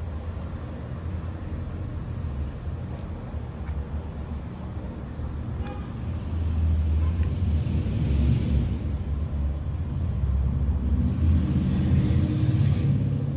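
Road traffic with a steady low rumble of vehicles, growing louder about halfway through.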